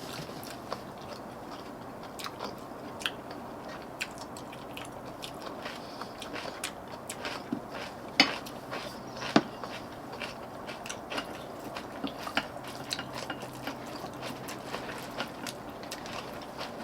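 Mouth sounds of eating braised dried pollack: chewing and biting, with scattered small clicks and knocks throughout. Two sharper knocks come about eight and nine seconds in.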